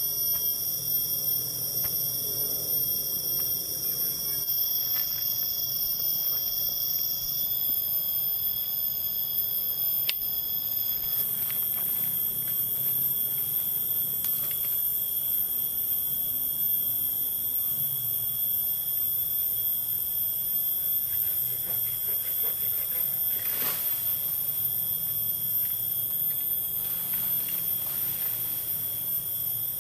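Insects in the forest droning in a steady, high-pitched chorus of several overlapping tones, some of which drop out partway through. A few faint knocks sound in the background.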